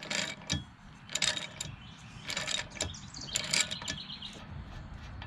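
Ratchet wrench clicking in about four short bursts, roughly one a second, as the handle is swung back between pulls while loosening an outboard's propeller nut.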